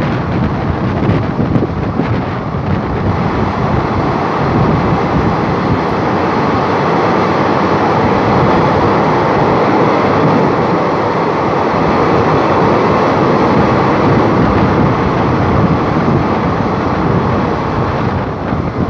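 Passenger train running through a rail tunnel, heard from a coach door or window: a loud, steady rumble of wheels and rushing air. Wind buffets the microphone as it enters and again as it comes out into the open near the end.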